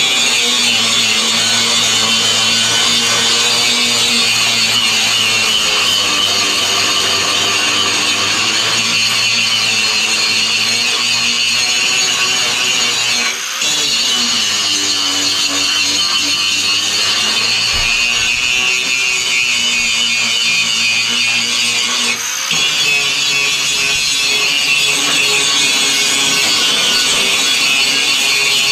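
Angle grinder grinding steel: a continuous harsh hiss of the disc on metal over the motor's hum. The hum shifts in pitch as the pressure on the work changes, and the grinding lets up for a moment twice.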